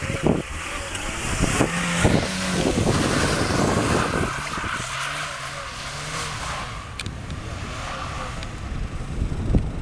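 Mazda MX-5 roadster's four-cylinder engine running as the car is driven round in tight turns, its note stepping up and down in pitch, with tyre and wind noise over it.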